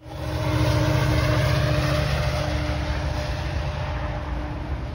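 GO Transit diesel commuter train with bilevel coaches crossing a steel railway bridge overhead: a steady heavy rumble with a constant low droning tone running through it.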